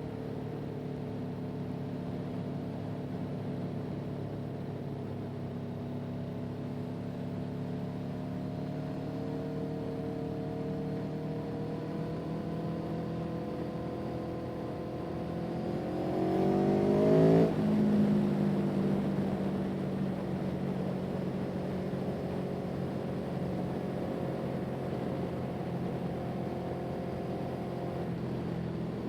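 Motor vehicle engine running steadily, its pitch slowly climbing. About sixteen seconds in it revs up louder and higher, then drops abruptly to a lower pitch and carries on steadily.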